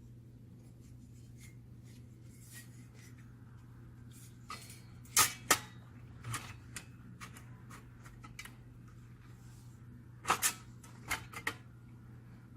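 Sharp clicks and knocks from copier fuser-unit parts being handled and fitted, in two short clusters, over a steady low hum.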